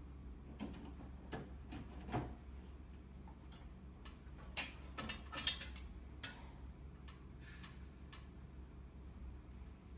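Irregular clicks and taps of plastic parts of an air conditioner's indoor unit being handled and fitted back together, with a cluster of sharper clicks about five seconds in, over a low steady hum.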